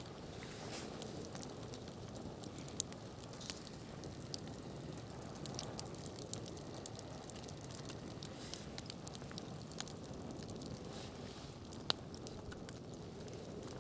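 Wood campfire crackling: irregular sharp pops and snaps over a steady low rush, with louder snaps about three seconds in and near the end.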